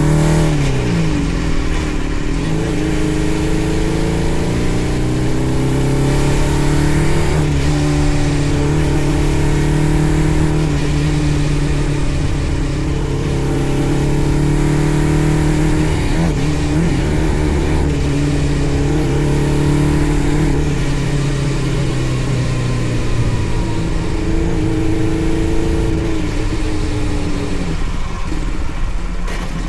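The 600cc engine of a home-built go-kart running under way, its pitch holding steady and then falling and rising again several times as the throttle is eased and reopened. The builder judges the engine still not running right.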